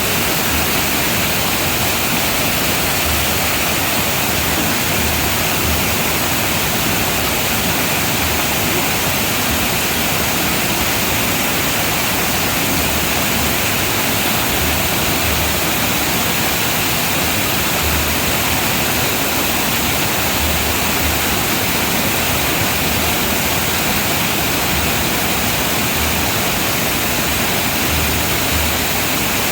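Man-made garden waterfall: a loud, steady rush of falling water with no break or change.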